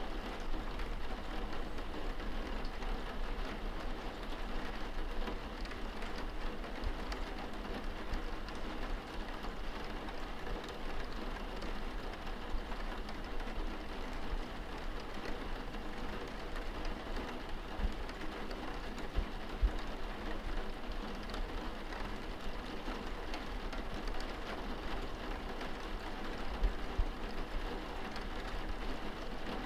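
Rain falling on window glass, heard from indoors: a steady, even patter with a low rumble underneath and a few brief, soft low thumps in the last third.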